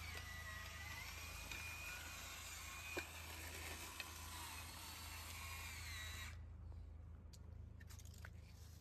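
A small electric motor whining steadily, its pitch wavering, with a couple of clicks; it cuts off suddenly about six seconds in, leaving a faint hum.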